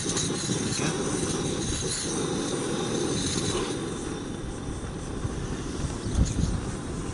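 Portable gas camping stove burner, lit and running with a steady rushing hiss.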